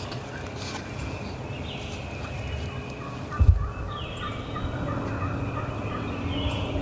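A wild turkey gobbler gobbles once, a rapid rattling call about four seconds in, just after a short low thump.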